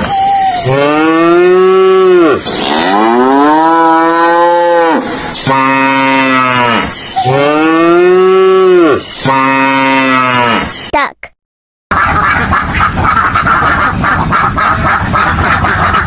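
Dairy cows mooing: about five long, loud moos, each rising and then falling in pitch. About 11 seconds in they cut off abruptly. After a short silence comes the dense chatter of a crowded flock of ducks and coots on water, quacking and splashing.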